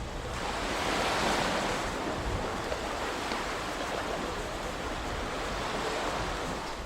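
Ocean surf: waves washing in a steady hiss, with a swell about a second in that slowly eases.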